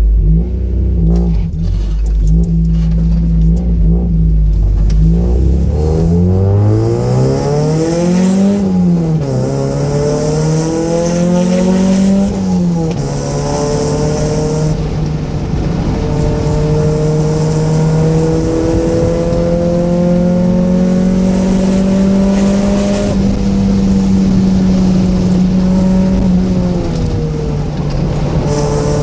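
Mazda Miata's 1.6-litre four-cylinder engine, fitted with aftermarket headers and intake, pulling away from low revs. The note rises and drops sharply twice as it shifts up through the gears, then holds a fairly steady pitch at cruise, easing off briefly near the end.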